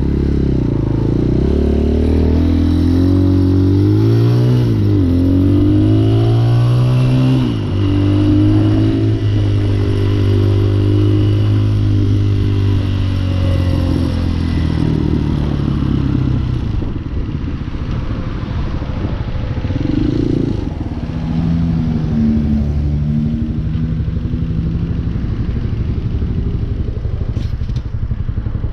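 Hawk 250 dual-sport motorcycle's engine under way, rising in pitch and dropping back several times in the first eight seconds or so as it is revved through the gears, then running steady. About halfway through it eases off to a quieter, lower note.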